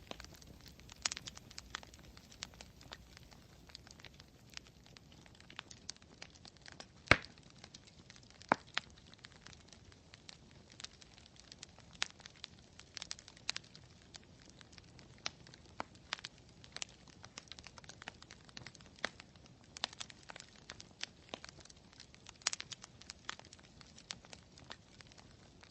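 Wood campfire crackling, with irregular sharp pops and snaps and one much louder pop about seven seconds in.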